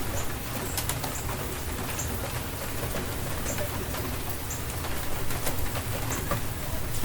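Steady rain falling, with scattered sharp drips and patters, while a bird gives short high chirps every second or so.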